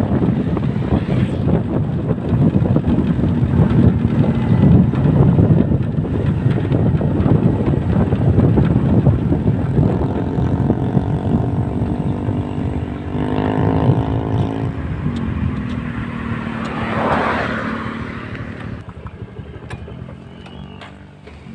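Road vehicle noise: a dense low rumble of passing traffic. Around the middle a vehicle engine drones at a steady pitch, and a louder swell passes about 17 seconds in before the noise dies down.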